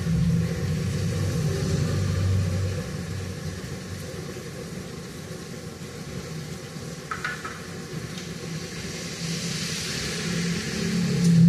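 Rain falling as a steady hiss under a low rumble that swells near the start, fades through the middle and rises again near the end.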